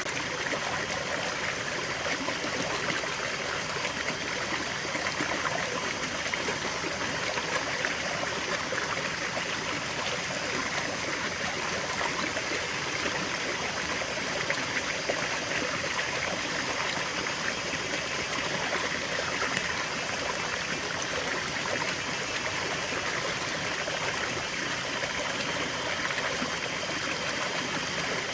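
Small stream of water running and trickling steadily over stones, with a constant splashing babble.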